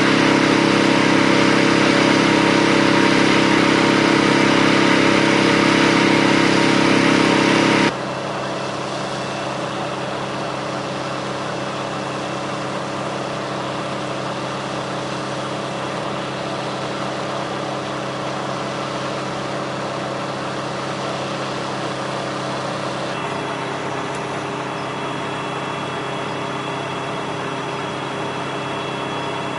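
A steady engine running at idle, a constant drone with a few held tones; it drops sharply in loudness about eight seconds in and changes slightly again later, as between shots.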